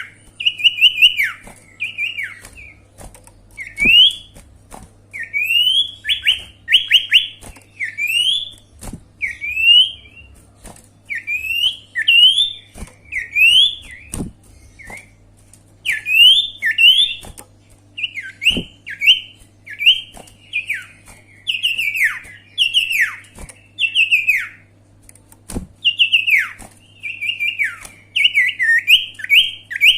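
Sirtu song: quick, high whistled notes that sweep up and then drop, delivered in repeated phrases, with sharp clicks scattered between them over a steady low hum. It is played as a lure call to draw in wild sirtu.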